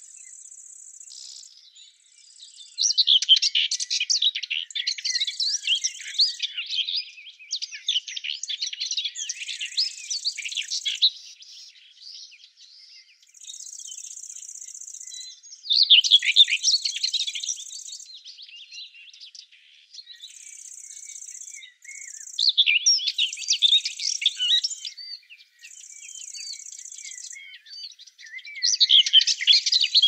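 Songbirds singing in repeated phrases of a few seconds each, loudest about three, sixteen and twenty-three seconds in. Between the phrases a high, steady insect trill, as of a grasshopper or bush-cricket, starts and stops every second or two.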